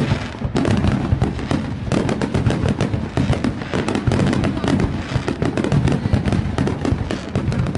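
Fireworks going off in a dense, rapid barrage of crackling bangs, with a brief gap about half a second in.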